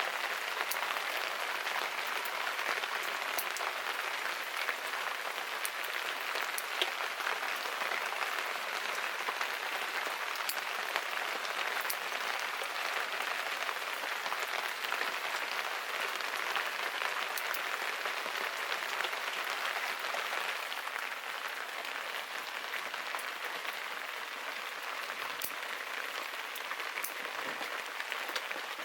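Steady rain falling, an even hiss with occasional sharp ticks of drops, easing slightly about two-thirds of the way through.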